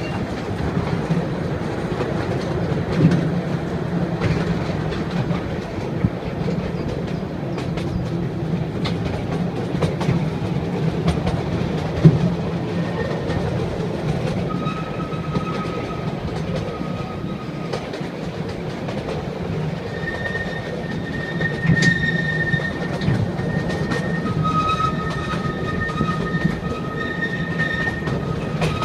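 Small narrow-gauge panoramic train running on its track, with a steady low rumble and the odd clack or knock from the wheels. From about halfway through, a high steady wheel squeal comes and goes.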